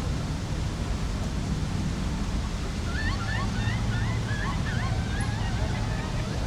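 Steady rushing spray of a lake fountain, with a low hum underneath. About halfway through comes a quick run of about seven short rising chirps.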